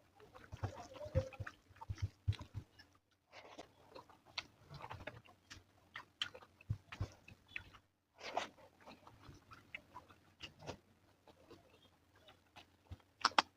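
A person chewing and eating close to the microphone: irregular wet mouth clicks, smacks and bites, with a couple of short pauses.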